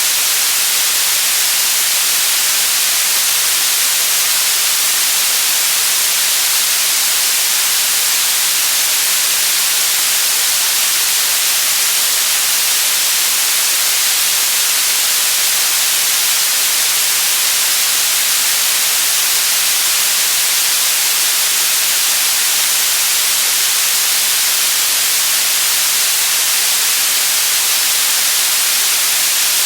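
Steady, loud white noise: an even, unchanging hiss, brightest in the high frequencies.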